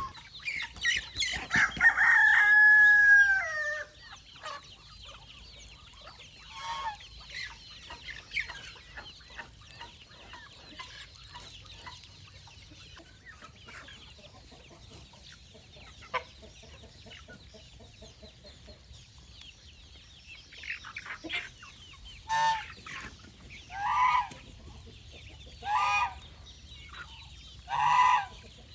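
Free-range chickens: a rooster crows loudly about a second in, then hens cluck softly. Near the end, four loud calls come about two seconds apart.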